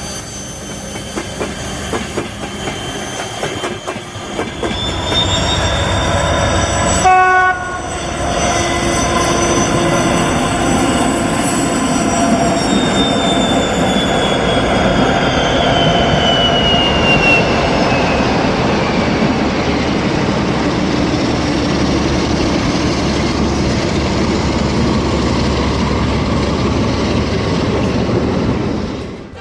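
Diesel-electric locomotive sound taken from TEP70 recordings. The engine rumble builds up after a few seconds and then runs on loud and steady. A short horn blast sounds about seven seconds in, and a high whine falls slowly in pitch in the middle of the stretch.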